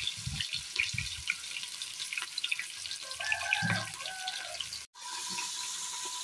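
Ginger-garlic paste frying in sesame oil in an aluminium pressure-cooker pot with a steady sizzling hiss, while a steel ladle stirs and scrapes against the pot in short ticks. The sound breaks off briefly about five seconds in, then a steadier sizzle resumes.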